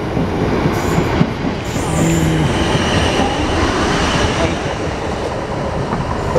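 South Western Railway Class 450 Desiro electric multiple unit running past close by along the platform, a loud steady rolling noise of wheels on rail.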